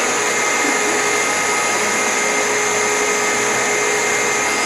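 Vacuum cleaner running steadily, a continuous rush of air with a steady motor whine over it.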